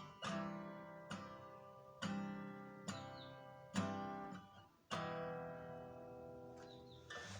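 Acoustic guitar strummed, about six chords roughly a second apart, each ringing and decaying. The last chord, about five seconds in, is left to ring out and fade: the closing chord of the song.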